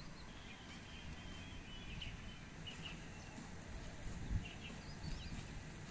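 Birds chirping in short scattered calls over a low steady outdoor rumble, with a single dull thump about four and a half seconds in.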